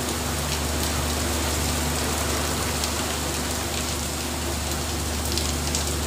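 Heavy rain falling on the sea and on a boat, a steady hiss with scattered drop ticks, over a low, steady mechanical hum.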